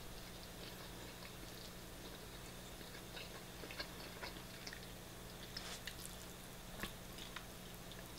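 Faint close-up chewing of a mouthful of shredded beef and rice, with scattered small mouth clicks and two sharper clicks about four and seven seconds in. A steady low hum runs underneath.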